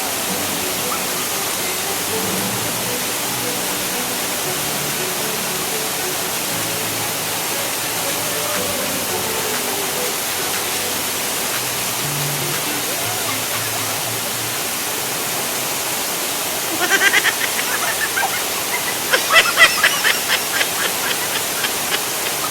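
Steady rush of a waterfall on a mountain stream, with faint music underneath. In the last few seconds, short, sharper sounds break in over the rush.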